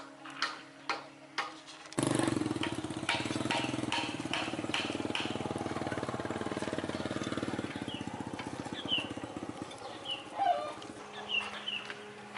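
An engine starts up suddenly about two seconds in and runs with a fast, even firing beat, then dies away over a couple of seconds near the end. Sharp knocks and clicks come before it, and short chirps after it.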